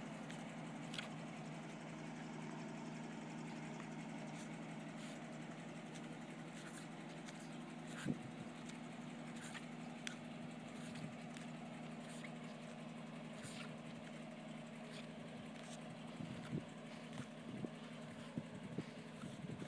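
A Toyota FJ40 Land Cruiser's engine idling steadily, with scattered light clicks; in the last few seconds, a few irregular low knocks.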